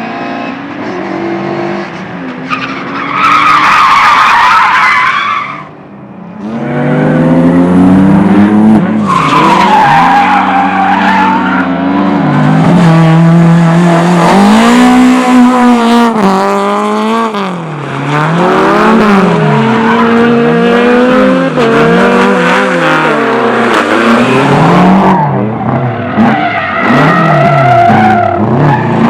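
Competition car in an autoslalom run, its engine revving up and down over and over as it weaves between cones, with the tyres squealing loudly on several hard turns.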